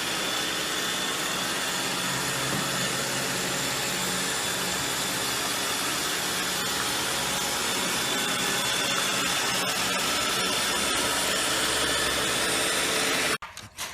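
A steady mechanical noise with a faint hum, like a motor running, cutting off abruptly near the end.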